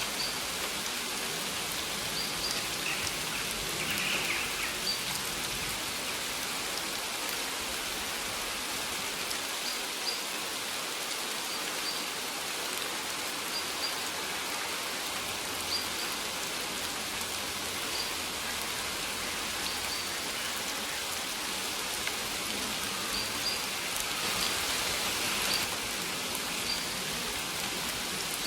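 Steady rain falling, an even patter of drops. Faint short high bird chirps recur every second or two.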